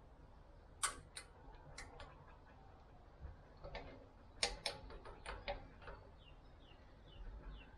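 Irregular sharp clicks and light knocks, like hard objects being handled, the loudest about a second in and again around four and a half seconds.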